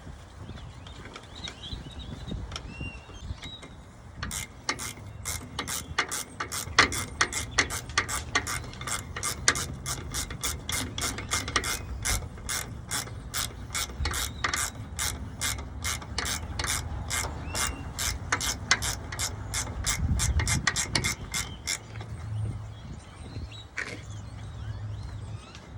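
Hand ratchet wrench clicking steadily, about three clicks a second for some eighteen seconds, as the bolts of a truck's transmission mount are run in.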